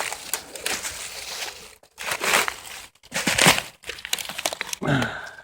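Dry leaves and ivy rustling and crunching in several irregular bursts, loudest a little past two and about three seconds in.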